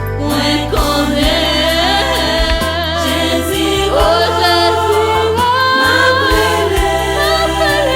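Gospel music: voices singing in a choir with wavering, held notes over instrumental backing with a stepping bass line.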